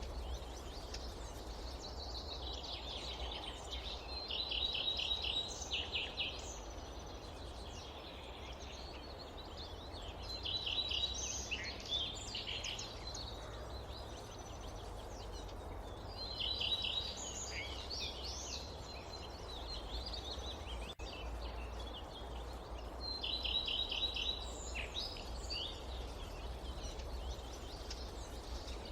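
Forest ambience: a songbird repeats the same short, high trilled phrase about every six seconds over a steady low rumble of wind.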